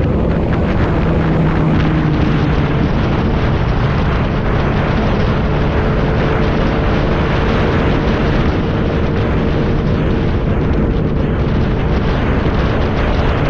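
Motorcycle engine running at a steady cruising speed. Its note dips slightly in the first few seconds and then holds level, under a loud, steady rush of wind noise on the microphone.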